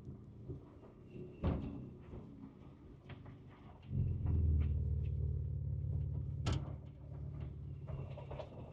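Ford Ranger Raptor's 3.0-litre twin-turbo V6 running at low engine speed, heard from inside the cab, with knocks and clunks from the truck's body and cabin as it works over a rough trail. About four seconds in the engine drone grows louder as throttle is applied, and a sharp knock stands out a couple of seconds later.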